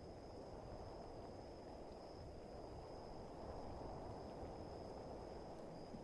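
Faint, steady rain and wind ambience, a low even hiss, with a thin steady high-pitched insect drone above it.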